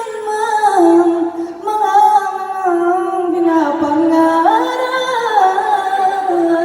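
A woman singing a slow ballad melody unaccompanied, holding long notes that step and slide between pitches.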